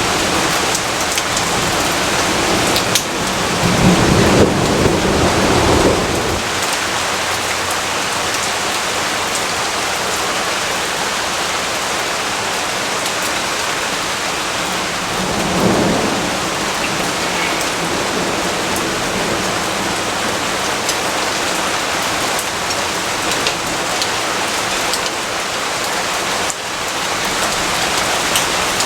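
Steady heavy rainfall, an even hiss of drops, with a low rumble of thunder swelling about four seconds in for a couple of seconds and a softer rumble near the middle.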